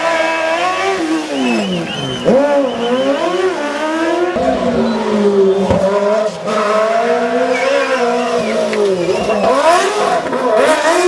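Racing car engine on a hillclimb, loud, its pitch rising and falling repeatedly as it revs up through the gears and drops back on lifts and shifts. The sound changes abruptly about four seconds in, then carries on rising and falling.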